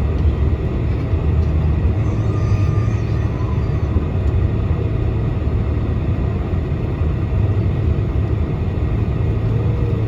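Steady low rumble inside the cabin of a Boeing 747-400 as it taxis, with the engines at taxi thrust.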